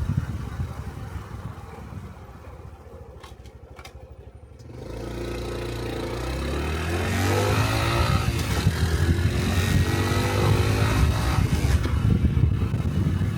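Honda Cub 125 cc single-cylinder motorcycle engine, slowed nearly to idle, then pulling away about five seconds in, its pitch climbing in steps through the gears as it picks up speed.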